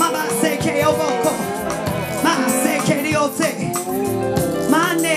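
Live church praise band playing, with voices singing and calling out over it and a shaker keeping time.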